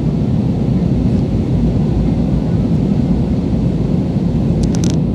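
Airliner cabin noise in flight: a loud, steady low rumble of the engines and rushing air heard from inside the passenger cabin. A few quick clicks sound near the end.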